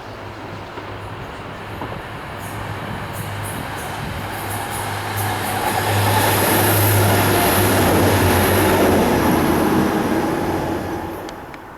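A train passing on the line. Its rumble builds to a peak about six seconds in, with a high thin squeal from the wheels at its loudest, and falls away quickly near the end.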